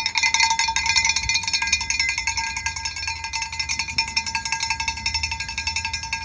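A metal object shaken hard, rattling and ringing in rapid continuous strikes: the call signal that tells young racing pigeons to come down to the loft.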